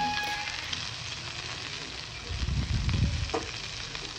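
Battered prawns sizzling steadily as they shallow-fry in a little oil in a nonstick pan. A fork taps the pan once as a browned piece is turned over, and a dull low rumble of handling comes a little past halfway.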